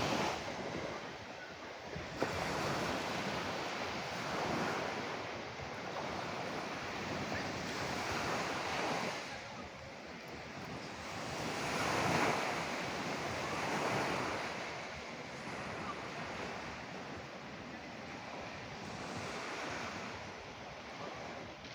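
Ocean waves breaking and washing onto shore, the surf swelling and easing every few seconds.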